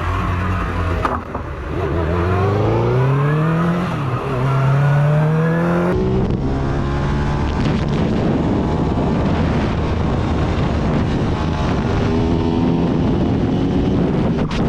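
Motorcycle engine accelerating hard through the gears: its pitch climbs, drops at a gear change about four seconds in, and climbs again. After an abrupt change about six seconds in, a steady engine note with wind rush follows.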